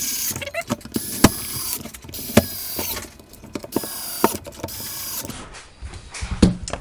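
A small power tool runs in bursts of a second or two while working on a plastic battery pack case, with sharp clicks between the bursts.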